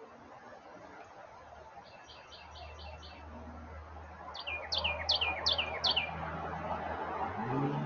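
Small birds chirping: a quick run of short notes, then a series of six sharp chirps that each slide down in pitch, about one every third of a second. A low hum grows underneath and rises in pitch near the end.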